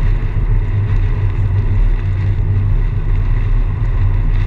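A car driving: a steady low rumble of engine and road noise, with wind.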